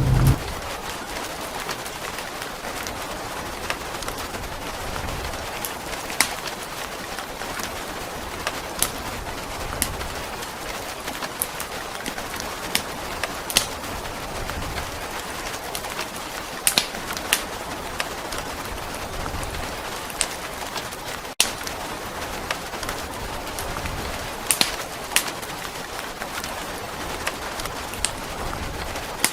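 Steady rain hiss with scattered sharp crackles and pops, as from a wood fire burning in a fireplace.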